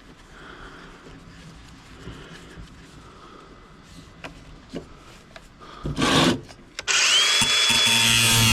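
Scattered light clicks and knocks, a short loud burst about six seconds in, then an angle grinder with a cutting wheel spins up about seven seconds in to a steady high whine.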